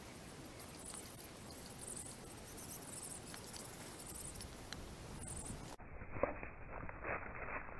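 Campfire crackling with scattered small pops and faint high squeaks while a bamboo pole is heated over it. A little before the end the sound abruptly turns duller, followed by sharper crackles and one loud pop.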